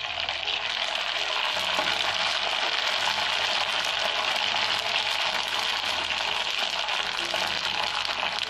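Sago fryums (javvarisi vathal) sizzling steadily as they deep-fry and puff up in hot oil in an aluminium kadai, moved about with a perforated slotted spoon.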